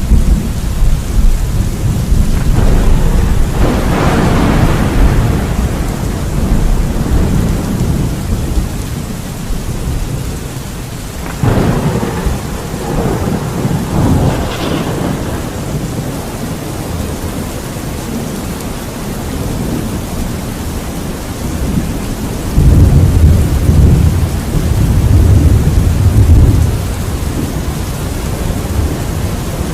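Steady rain with rolling thunder: rumbles swell about 3 seconds in, a sharper crack comes near the middle and rolls on for a few seconds, and a loud deep rumble comes about three quarters of the way through.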